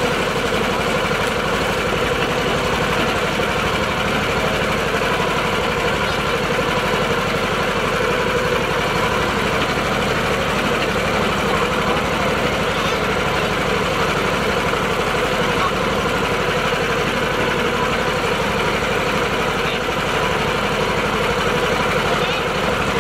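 Mini tractor's engine running steadily at an even speed.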